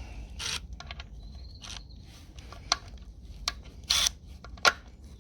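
Hand tools and metal parts being handled on a tractor engine: a scatter of sharp clicks and knocks with short scraping rubs between them.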